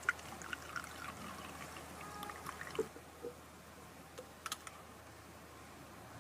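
Liquid being poured or trickling, with scattered small clicks and clinks.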